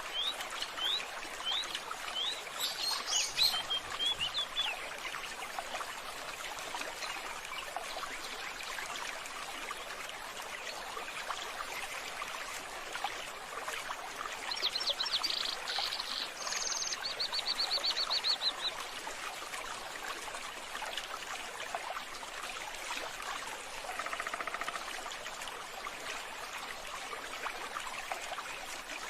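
Steady running water, like a trickling stream or fountain, with birds chirping: a few quick chirps at the start and a trilled call about halfway through.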